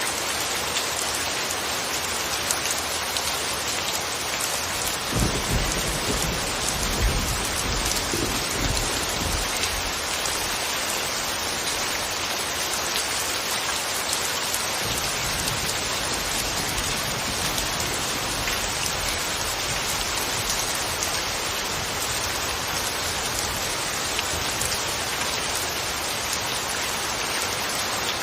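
Steady rain falling, an even hiss of drops. About five seconds in, a low rumble of thunder rises under the rain for several seconds and fades away.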